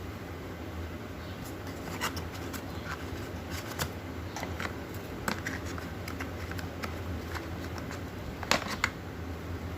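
Phone packaging being handled: small clicks and light scrapes of the box and its parts over a steady low hum, with two sharper clicks in quick succession near the end.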